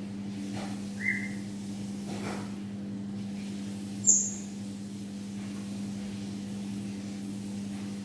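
Two short, high bird chirps, about a second in and again about four seconds in, over a steady low hum.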